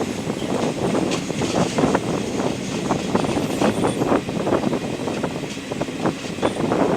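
Indian Railways passenger train running at speed: a steady rumble of the moving coaches with frequent irregular clatter and knocks.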